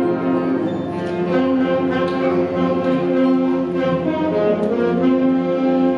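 Middle school concert band playing sustained, brass-heavy chords that shift every second or so.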